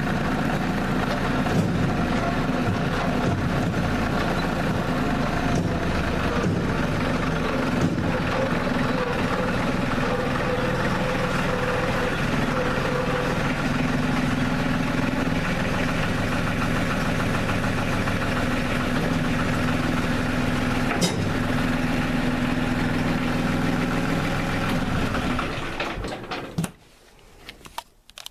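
LS G3033 compact tractor's diesel engine running steadily, cutting off about 26 seconds in.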